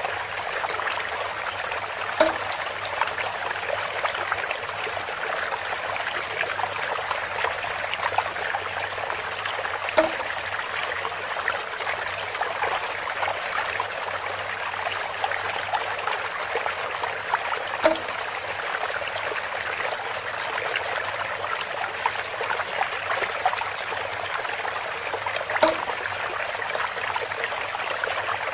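Water steadily trickling and running through bamboo. A short knock recurs about every eight seconds, four times in all.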